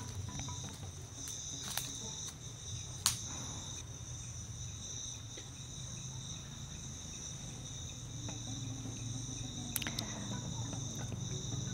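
Night insect chorus of crickets trilling steadily at two high pitches, with a few sharp clicks, the loudest about three seconds in.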